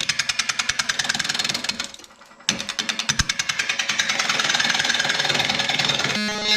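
Turning gouge knocking rapidly against an out-of-round, bark-covered mesquite blank spinning on a wood lathe as it is roughed down, about ten knocks a second, with a short break a little after two seconds. Music comes in near the end.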